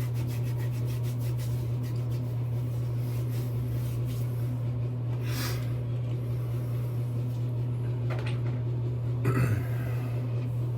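Hands rubbing pre-shave oil into the face and beard, soft rubbing with two brief rustles, about halfway through and near the end, over a steady low hum.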